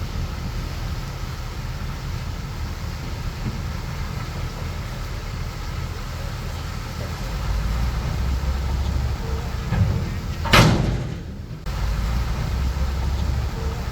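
Bulldozer's diesel engine running steadily under work, its low rumble growing heavier about seven seconds in. A single loud, sharp clank about ten and a half seconds in.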